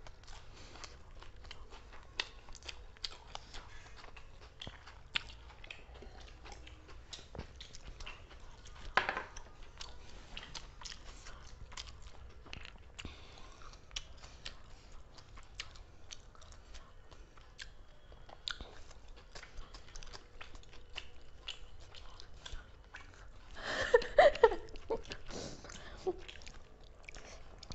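People chewing and biting food quickly, with small wet clicks and some crunching throughout. There is one louder click about nine seconds in and a brief louder burst of sound near the end.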